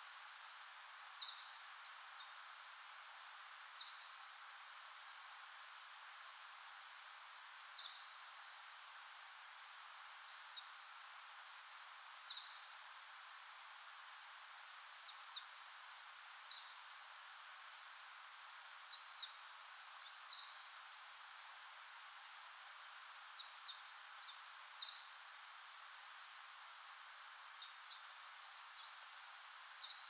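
Wild songbirds calling: short, thin, high-pitched notes, singly or in quick little clusters every second or two, over a steady hiss.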